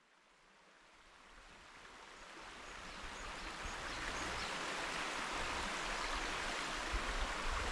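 Flowing river water, a steady rushing hiss that fades in over the first few seconds, with low rumbling starting near the end.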